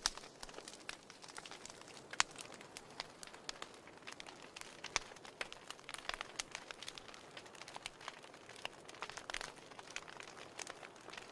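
Wood fire crackling in a fireplace: irregular sharp pops and snaps over a soft steady hiss, with one louder snap about two seconds in.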